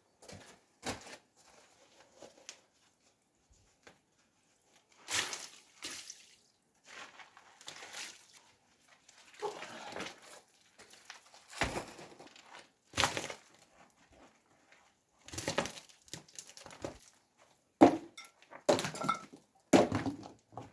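Loose stones and clay rubble being worked out of an old stone wall by hand: irregular scrapes, knocks and small falls of debris, with a sharp knock near the end.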